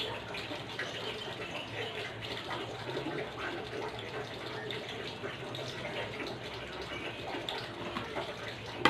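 Steady sizzling and crackling of lumpia Shanghai frying in oil.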